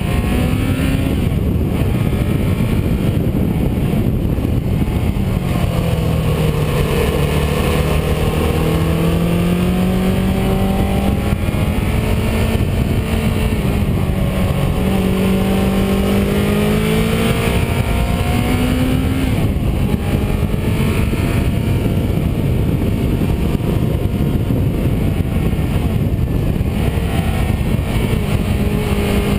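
Car engine running under changing throttle while driving, its pitch rising and falling again and again, over steady road and wind noise.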